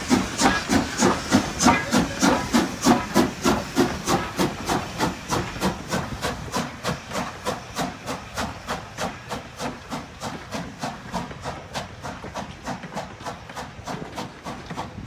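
Strasburg Rail Road No. 90, a 2-10-0 steam locomotive, chuffing steadily at about four exhaust beats a second as it works a train, the beats growing fainter as it moves away.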